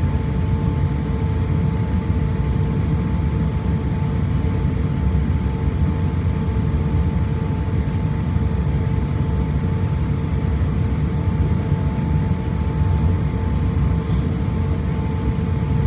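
Steady low rumble inside an Airbus A350-1000 airliner cabin, with a steady hum over it.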